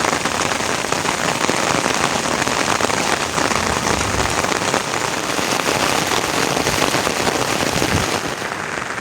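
Heavy rain falling, a dense steady patter of drops hitting surfaces; about eight seconds in, the sound turns slightly softer and duller.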